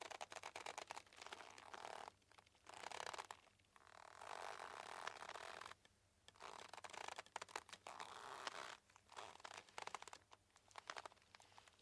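Boat ropes creaking faintly as they strain and rub, in a series of drawn-out, rasping creaks a second or two long with short pauses between.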